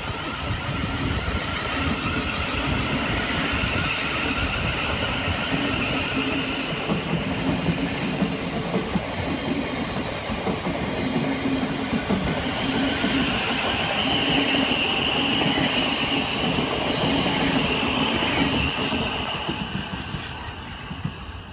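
Thameslink Class 700 electric multiple unit running past on the line beside the platform, its wheels clattering rhythmically over the rail joints. A higher electric whine comes in about two-thirds through and fades near the end.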